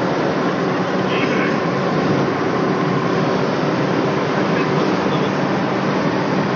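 Car engine drone mixed with road and wind noise at a steady pitch, as heard from inside a moving car.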